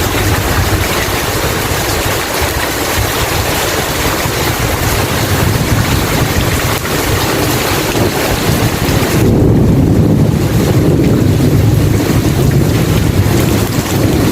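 Rainstorm: a steady hiss of heavy rain over a low, rolling rumble. About nine seconds in, the high hiss drops away and the low rumble grows louder.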